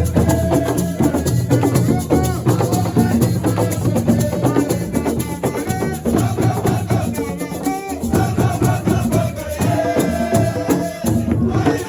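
Live assiko music: a voice singing over dense, driving drums and shaker rattles.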